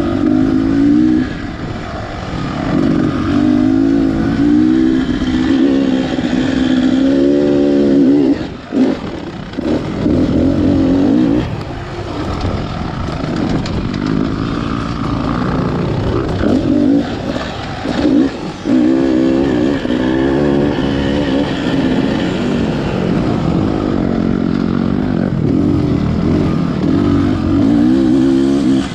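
Beta Xtrainer 300 two-stroke single-cylinder dirt bike engine being ridden, its revs rising and falling over and over as the throttle is worked. There are brief drops off the throttle a few times.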